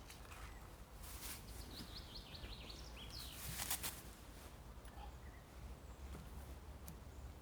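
A bird gives a quick run of short, high chirps, with a few brief clicks over a low, steady background rumble.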